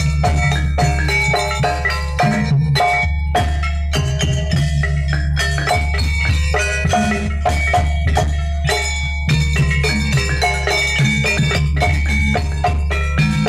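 Jaranan gamelan music: metal-keyed mallet instruments struck in quick, dense runs over drums and a heavy, steady bass.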